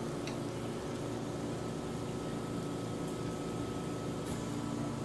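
Egg-battered shiso leaf frying in an oiled pan: a steady low hiss over a steady hum, with two faint ticks, about a second in and near the end.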